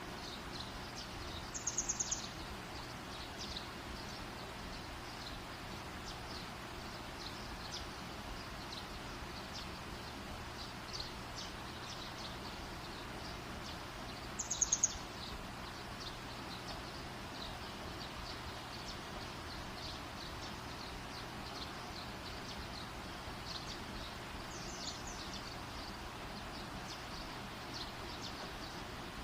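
Outdoor campfire hissing steadily with faint crackles. A bird gives a short, rapid, high-pitched call twice, about two seconds in and about halfway through, and more faintly near the end.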